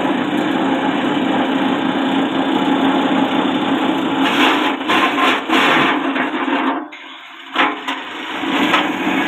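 Small forage chopper driven by a 1/4 hp electric motor running with a steady hum while it chops plant stalks, with a burst of crackling, splintering cuts about four to six seconds in. The sound briefly drops away about seven seconds in, then the machine noise comes back.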